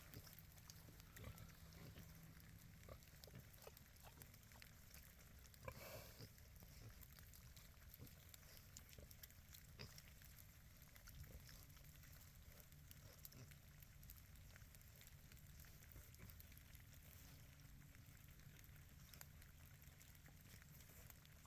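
Berkshire pigs grunting faintly as they feed on corn, with one brief louder noise about six seconds in.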